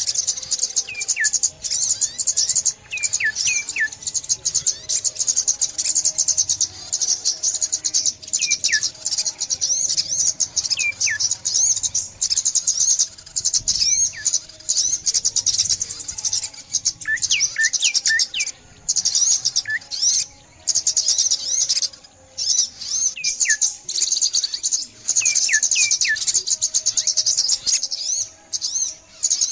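A chorus of small birds, sunbirds among them, chirping: a dense, high-pitched twittering that never lets up, with short downward-sliding whistled notes in clusters of two to four every few seconds.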